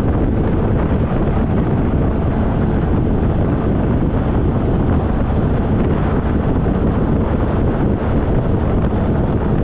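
Steady wind rushing over the microphone while riding a motorcycle at road speed, a dense low rumble without clear breaks.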